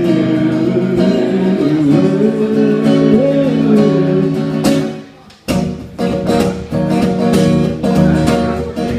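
Live indie-folk band playing an instrumental passage: strummed acoustic guitar chords under a wavering melodic line. About five seconds in the band drops out almost to silence for a moment, then comes back in with strummed guitar.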